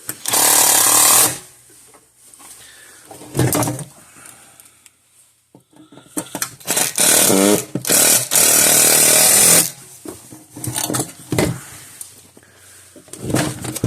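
Cordless impact driver with a Phillips bit running in four short bursts, driving short self-tapping screws into an electric fence charger's case in place of rivets.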